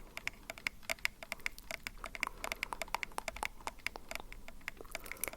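ASMR mouth sounds: a rapid run of small wet mouth clicks and pops, several a second.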